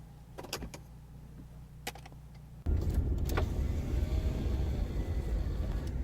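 Dashcam audio of a car on the road, heard inside the cabin: a steady low rumble with a few sharp clicks. About two and a half seconds in it jumps suddenly to a much louder, steady rumble and hiss of road and tyre noise.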